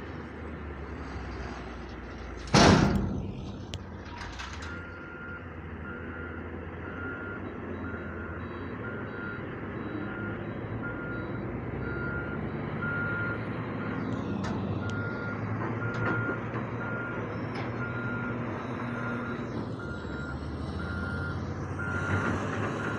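Heavy diesel machinery running steadily, with one loud sudden burst about two and a half seconds in. From about five seconds on, a vehicle's reversing alarm beeps at an even pace, about one and a half beeps a second.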